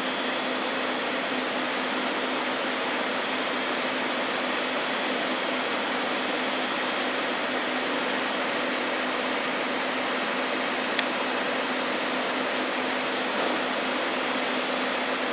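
Steady whooshing hiss of a running fan or blower, even in level, with a low steady hum underneath. A single faint click about eleven seconds in.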